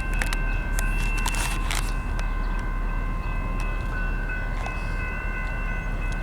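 Canadian National mixed freight train's cars rolling past: a steady rumble with scattered clacks, and a steady high-pitched ringing tone from the wheels held throughout.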